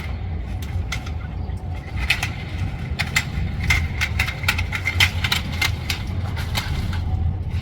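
Low, steady vehicle rumble, with a rapid run of sharp clicks and knocks starting about two seconds in.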